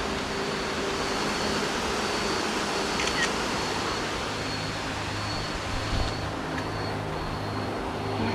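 Steady rush of cascading water from the waterfall, under a low steady hum.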